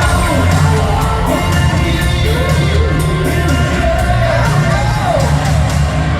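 Live hard rock band playing loudly: heavy bass and drums with repeated cymbal crashes, and singing over the top.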